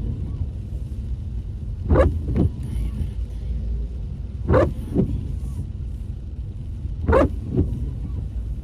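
Steady low road and engine rumble inside a moving car, with windscreen wipers sweeping in the rain: three double strokes about every two and a half seconds.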